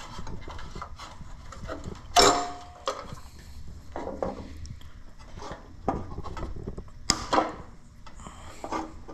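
Hand-working noises on the tractor: irregular clicks, knocks and scrapes of tools and parts being handled while old wiring is pulled out. A sharp knock comes about two seconds in and another about seven seconds in.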